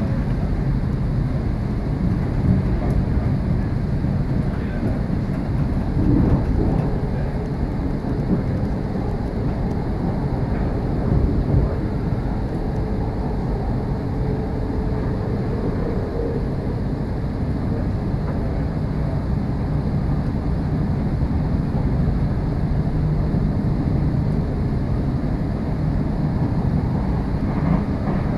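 Inside a passenger train running at speed: a steady low rumble from the wheels on the rails, with a faint hum showing for a few seconds midway.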